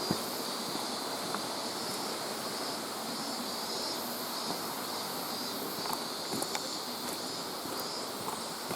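Steady rush of a mountain stream, with a high drone that swells and fades over it. Scattered small clicks come from the old video camera's unsteady monitor rattling.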